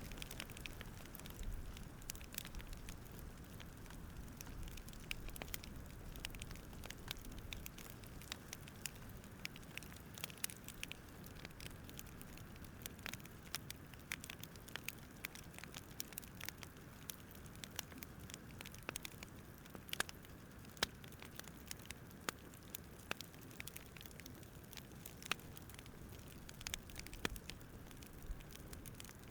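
Campfire crackling: irregular sharp pops and snaps over a faint steady rush.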